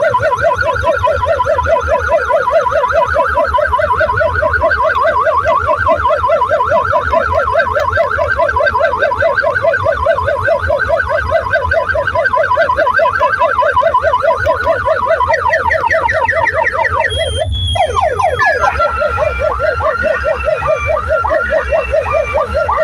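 Loud siren-like warbling effect blasted through a large DJ sound system, a rapid up-and-down tone over a steady deep bass. About seventeen seconds in it sweeps down and switches to a higher, different warble.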